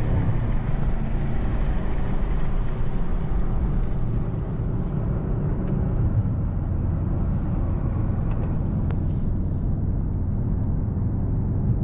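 The Mercedes-AMG S63's twin-turbo 4.0-litre V8 running under way, with road noise. It is louder and fuller for the first few seconds, then dips about four seconds in and settles into a lower, steady drone.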